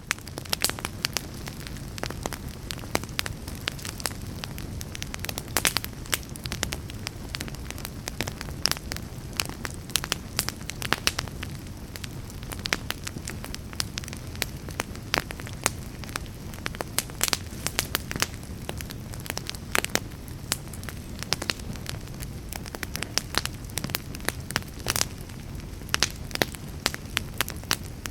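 Wood fire in a fireplace crackling steadily, with frequent irregular sharp pops over a low, even rumble of the flames.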